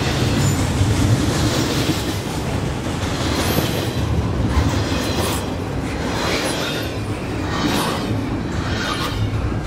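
Loud, steady rumble of a double-stack intermodal container train's well cars rolling past, their steel wheels clacking over rail joints at uneven intervals.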